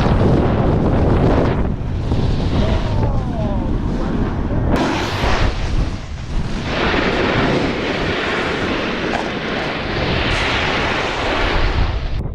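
Strong wind buffeting a helmet or action-camera microphone while snowboarding downhill, a loud, unsteady rush with a deep rumble and a brighter hiss that swells and fades, ending abruptly near the end.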